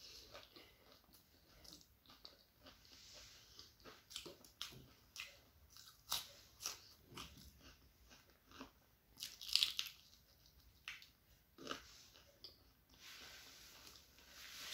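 Close-up chewing and crisp crunching of a person eating a breadcrumb-fried egg devil (dimer chop): a run of short, sharp crunches between slower chewing, the loudest about two-thirds of the way through.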